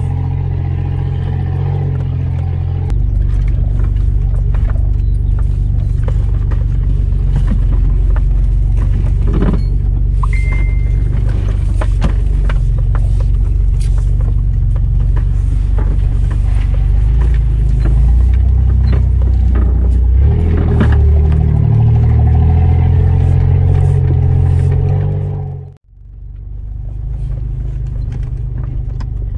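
Off-road 4x4's engine running under load over rough ground, heard from inside the cab: a steady low drone with scattered knocks and rattles from the bumps. The engine gets louder about three seconds in and again later, then drops out abruptly for a moment near the end before picking up again.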